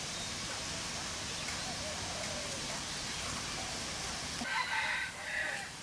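A bird gives a short pitched call twice, about four and a half seconds in, over steady background noise and faint distant voices.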